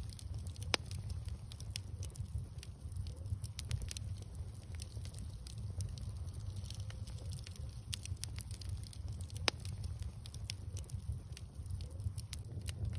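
Wood bonfire crackling: a steady run of small sharp pops and snaps over a low, even rumble, with two louder snaps, one just under a second in and one about two-thirds of the way through.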